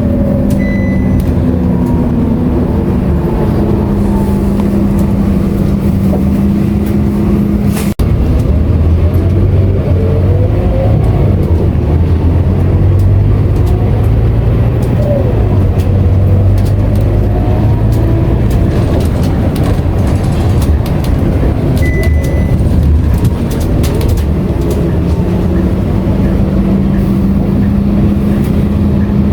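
Scania K230UB city bus heard from inside while under way, its diesel engine running with a deep, steady note. About eight seconds in the note drops to a lower pitch and grows louder, then rises again near the end. Faint whines glide up and down, and two short high beeps sound, one early and one later.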